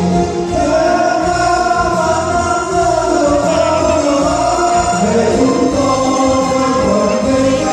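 Music: a choir singing long held notes.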